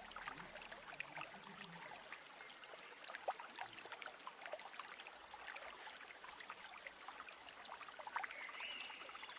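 Faint trickling stream, water splashing and babbling over stones, with a bird's short whistled call near the end.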